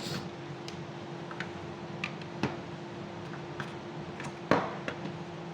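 Small clicks and taps of hand tools on a multimeter's circuit board while a damaged resistor is being removed, irregular and scattered, the loudest about four and a half seconds in, over a steady faint hum.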